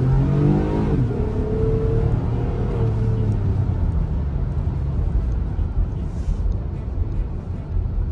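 2021 Toyota Highlander's 3.5-litre V6, heard from inside the cabin, pulling under acceleration with its note rising, then dropping suddenly about a second in as the automatic shifts up. After that it settles into a steady low rumble of engine and road noise while cruising.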